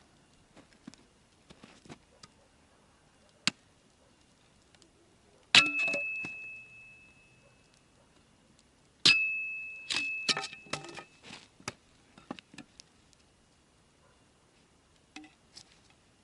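A metal object struck twice, each hit ringing out with one clear high tone for a second or two. Scattered lighter clicks and knocks come before and after the hits.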